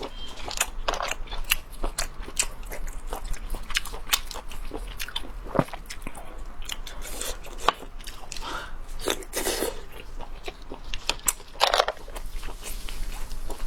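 A person biting and chewing abalone, with many irregular sharp, wet mouth clicks and crunches.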